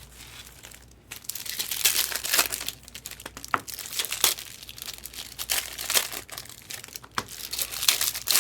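Trading card pack wrappers crinkling and tearing as packs are torn open by hand, starting about a second in, with many sharp crackles.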